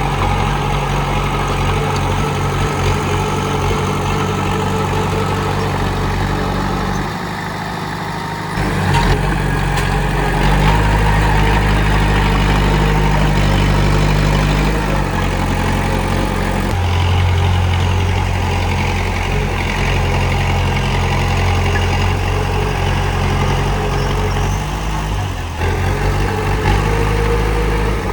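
Komatsu D31P crawler bulldozer's diesel engine running steadily. It drops briefly about seven seconds in, then runs louder again from about nine seconds on.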